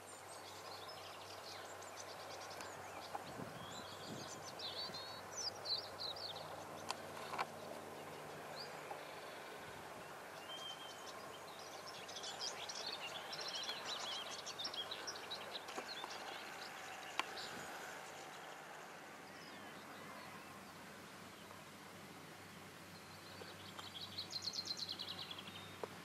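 Several small birds singing and chirping over a steady outdoor hiss, with a fast trill of repeated notes near the end.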